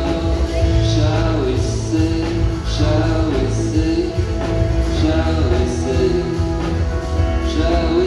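Live indie rock band playing a song, with a sung vocal line over a full band and a steady, heavy bass.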